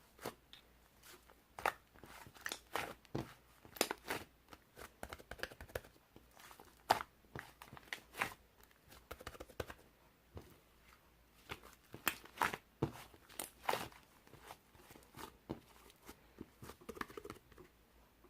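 Irregular taps, clicks and crinkling, a few each second, like small objects being handled.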